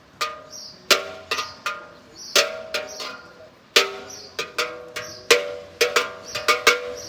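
Small belfry bells being rung, a series of irregular clangs of slightly differing pitch, each ringing on briefly; the strokes come faster and closer together in the second half.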